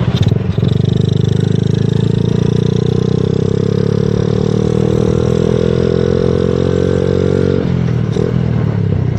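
Small motorcycle engine pulling under throttle through a loud exhaust, its pitch climbing steadily for about seven seconds, then dropping suddenly near the end.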